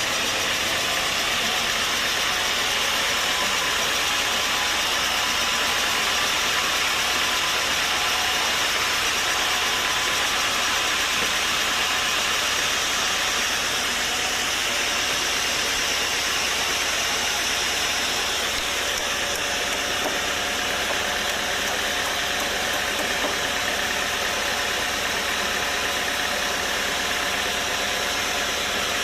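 Sawmill machinery running steadily, an even engine-driven din that keeps up without a break.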